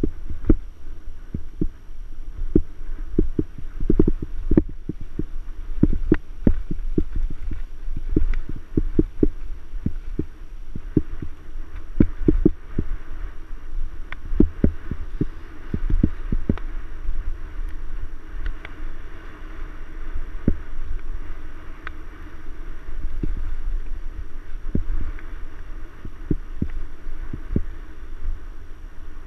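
Mountain bike jolting over a rough trail, picked up by a camera mounted on the bike or rider: a low rumble with many irregular knocks and rattles from the frame and drivetrain at each bump.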